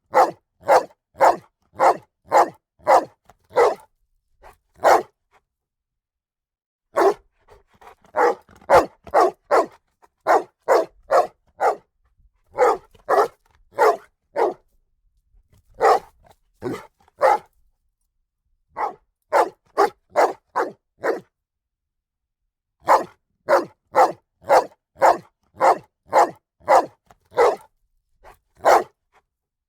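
A dog barking in volleys of several quick barks, about two a second, with pauses of one to two seconds between volleys.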